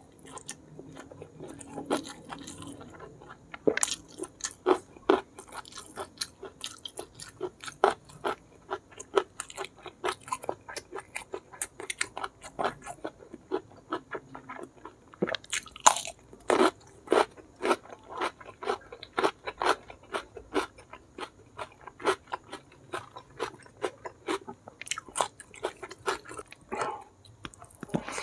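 Close-up chewing and biting: a steady run of wet chewing clicks from a mouthful of blood clams in chili sambal with stink beans and rice. Louder crisp crunches come about halfway through as a raw cucumber is bitten.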